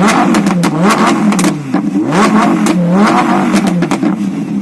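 Lamborghini Huracán's V10 exhaust, loud, the engine revving up and back down twice, with sharp crackles over the revs.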